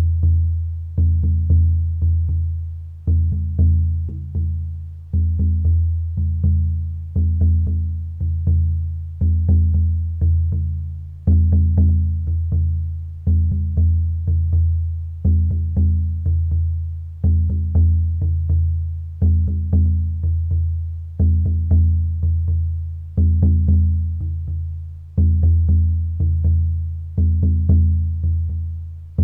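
Rhythmic music built on a low, ringing drum beat: a strong stroke about every two seconds with lighter strokes between, each dying away before the next.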